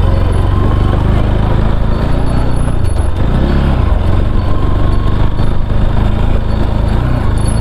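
Motorcycle engine running steadily while riding, its note dipping and shifting briefly about three seconds in.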